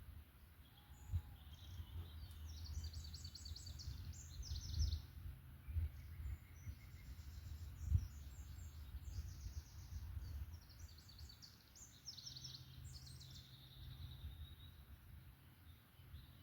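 Songbirds singing in the forest: a series of rapid, high-pitched trilled phrases, which stop near the end. Under them is a steady low rumble, with two brief low thumps.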